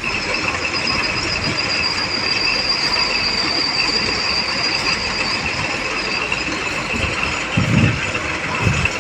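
Tractor-driven borewell drilling rig running steadily, with a continuous high-pitched squeal over the machine noise. Two low thumps come near the end.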